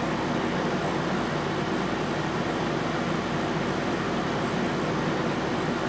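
Steady background hum and hiss of the kind a fan or air conditioner makes, with no distinct clicks or knocks.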